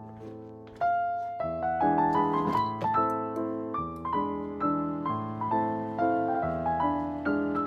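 Background piano music: gentle keyboard melody, a new note about every half second over slow-changing bass notes.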